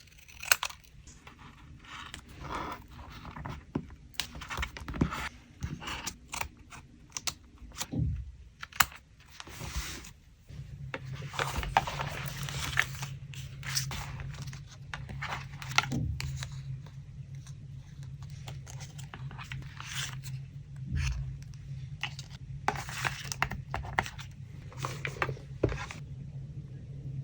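Paper craft handling for a collage: paper rustling, scraping, crinkling and tearing, with many sharp clicks and taps. A low steady hum joins about ten seconds in.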